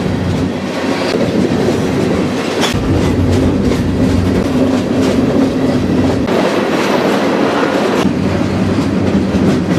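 Freight train rolling, heard from aboard a grain hopper car: the steady rumble and rattle of steel wheels on the rails, with a sharp clank a little under three seconds in.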